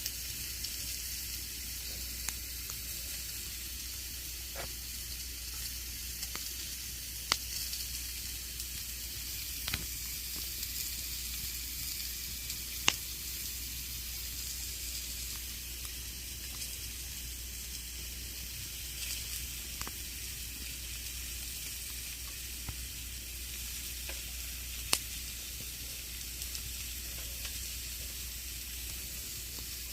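Campfire burning: a steady hiss of flames with scattered sharp crackles and pops from the burning wood, the loudest pops a few seconds apart.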